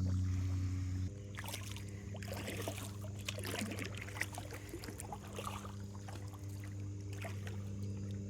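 Kayak paddle dipping into river water, with small splashes and drips, over a steady low hum that shifts pitch about a second in.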